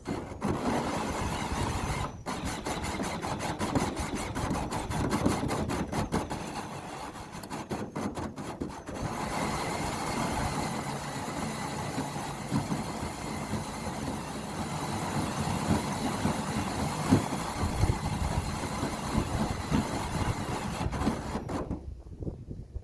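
Cordless drill running under load while cutting into metal, with a brief stop about 2 seconds in and stuttering dropouts around 8 seconds in. It stops near the end.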